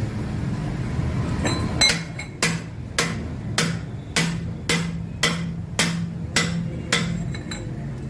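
Hammer blows on metal: about ten sharp, evenly spaced strikes, roughly two a second, starting about two seconds in and stopping near the end.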